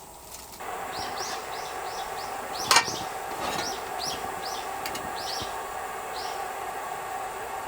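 A bird calling in a quick series of short, falling, high chirps, about two a second, over a steady hiss. One sharp click comes a little under three seconds in.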